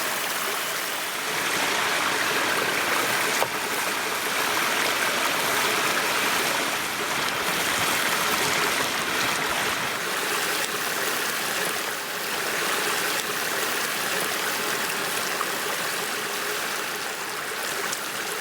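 Stream running with a steady rushing, with a single brief click about three and a half seconds in.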